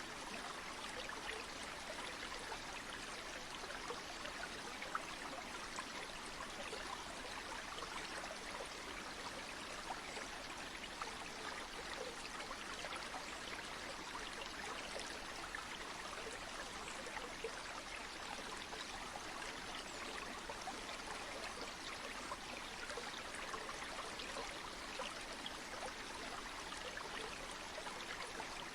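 Flowing stream or river water rushing steadily: an even, hissy wash with fine splashy detail, bright rather than rumbling, and no change in level.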